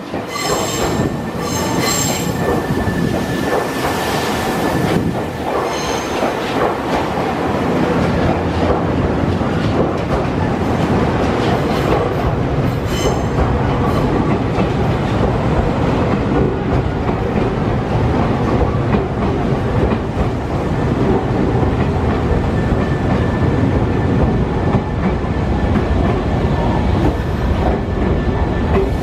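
Nankai electric commuter train running past at the platform: a steady wheel-and-rail rumble, with the wheels squealing in the first couple of seconds and again about halfway through.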